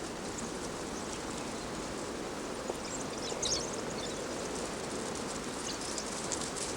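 Steady outdoor wildlife ambience: an even hiss with a few faint, brief high chirps.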